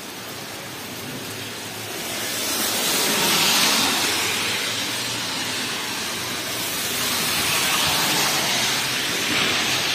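Heavy rain falling on a flooded street, with the wet hiss of cars driving through standing water swelling past about three seconds in and again later on.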